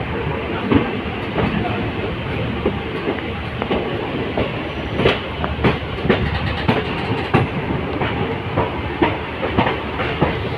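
ICF passenger coach running along the track: a steady rumble with irregular sharp clacks from the wheels over the rails.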